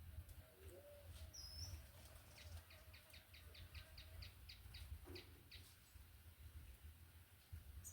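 Wild birds calling faintly. A faint low call comes near the start, then a rapid series of about a dozen short high notes, about four a second, ending past the middle.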